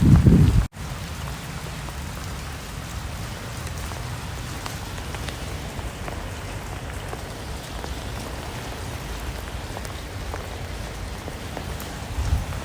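Steady rain falling, an even hiss with scattered individual drops ticking. It follows a brief loud low rumble that cuts off suddenly less than a second in.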